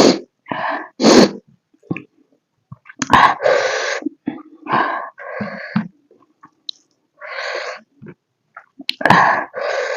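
Close-miked eating sounds from pork and potato curry: wet chewing and slurping in bursts under a second long, with a few sharp smacks.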